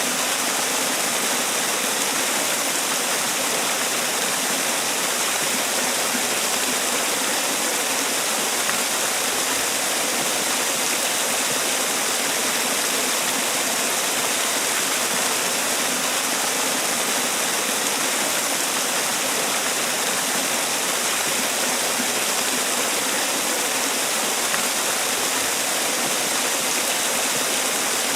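Man-made waterfall: water falling and splashing in a steady, unbroken rush, loudest in the high hiss.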